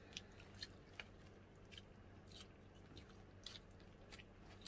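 Faint chewing and biting of food, with about nine small crunches and clicks at irregular intervals.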